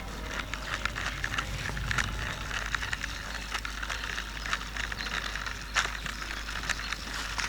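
Small plastic clicks, rattles and crinkles as a toy construction vehicle and its wrapping are handled, with one sharper click near the end.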